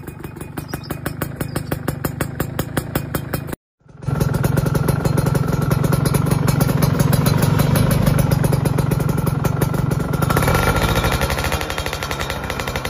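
Yamaha F1ZR two-stroke single-cylinder engine breathing through an aftermarket racing exhaust. It idles at first with a rapid, sharp popping. After a short break in the audio it runs louder and steadier.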